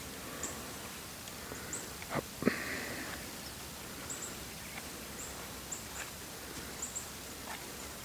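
Small songbirds giving short, high chip calls, scattered a dozen or so times over faint outdoor hiss. About two seconds in there are two knocks and a brief rustle.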